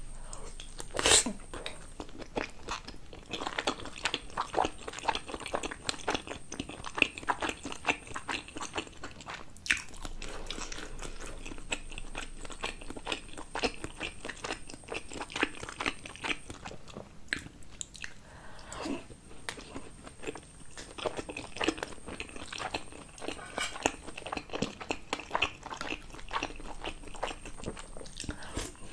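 Close-miked chewing of steamed momo dumplings with chutney: soft, wet, irregular mouth clicks and smacks, with one sharp, loud click about a second in as a dumpling is bitten.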